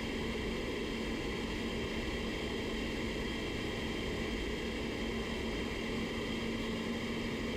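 Steady rushing air noise with a constant low hum, typical of a paint spray booth's ventilation fans running.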